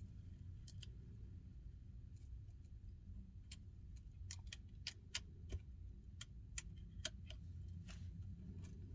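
Faint, irregular light clicks and taps from handling small phone parts and repair tools during iPhone 12 reassembly, more frequent from about halfway through, over a low steady hum.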